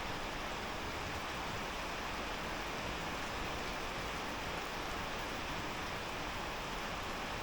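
Steady rain falling, an even hiss without breaks or distinct drops.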